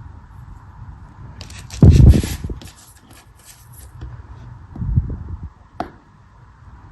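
Crunchy cutting sounds: a blade pressing down through a soft, crumbly block. The loudest cut comes about two seconds in, with a dull thud and a run of crackling ticks. A softer cut follows near five seconds, then a single sharp click.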